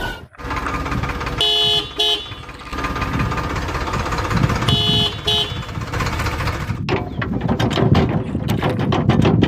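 A vehicle horn gives a double toot twice, about three seconds apart, over an engine running steadily. Near the end the engine turns rougher and louder, with a fast chugging pulse.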